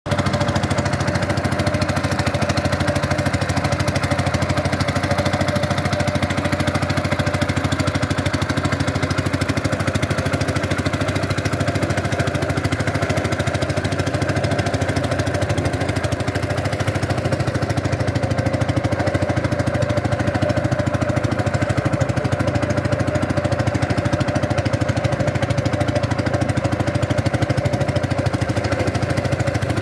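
A small engine running steadily at constant speed, with no change in pitch or level.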